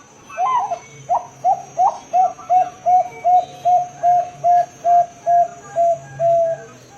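Bangkok-type zebra dove (perkutut) singing a long run of about sixteen short coos, roughly three a second. The first few notes are higher and broken, then the rest settle to an even pitch.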